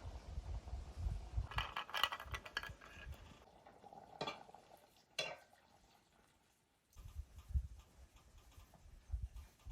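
Kitchen utensils clinking and scraping against cookware, with a run of quick clinks in the first few seconds and two sharp single clinks about four and five seconds in. Low thuds follow from about seven seconds in.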